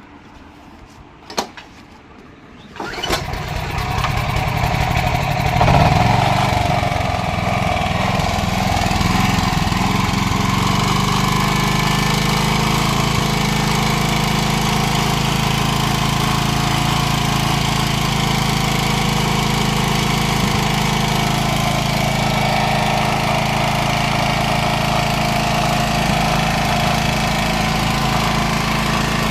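Small petrol generator engine starting about three seconds in after a sharp click. It speeds up briefly, then settles into steady, even running.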